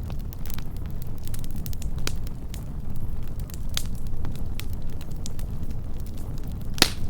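Wood campfire burning close up: a steady low rumble of flames with frequent sharp crackles and pops, the loudest pop just before the end.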